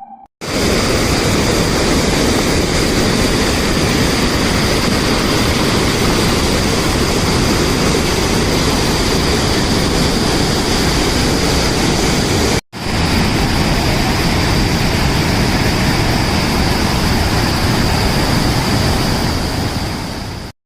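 Waterfall in monsoon flow: a loud, steady rush of falling water, breaking off for a moment about two-thirds of the way through.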